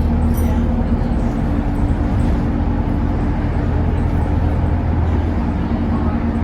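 ADL Enviro 200 Dart bus engine running loud and steady. It makes a low drone with a held mid-pitched whine, and a second, slightly higher tone joins about a second and a half in.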